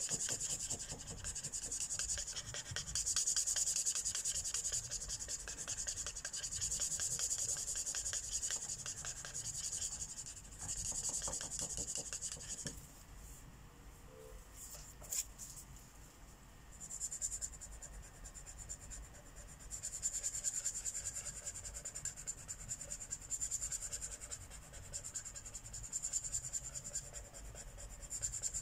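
Marker tip rubbing over paper in quick back-and-forth coloring strokes, a steady scratchy hiss. It pauses for a few seconds around the middle, with a single sharp click in the pause, then resumes.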